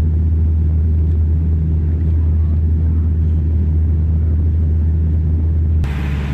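Steady low drone of an airliner cabin in flight, a constant deep hum. Near the end it cuts abruptly to a different, hissier steady vehicle noise.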